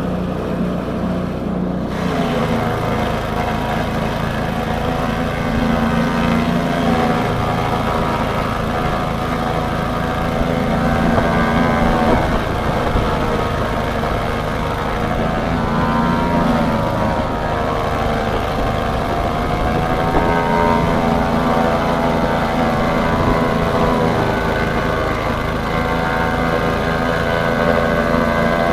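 Engine-driven chaff cutter for elephant grass running steadily. Its engine note sags and recovers in pitch several times.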